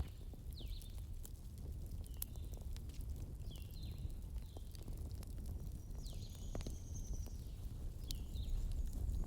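Wood fire in a fireplace crackling and popping in irregular sharp snaps over a steady low rumble of burning. Short high chirps sound every second or so, with one longer whistle about six seconds in.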